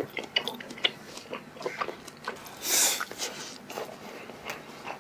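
Close-up chewing and small wet mouth clicks of a person eating a mouthful of spicy stir-fried pork with rice, his teeth sore from braces. A short breathy hiss comes about halfway through.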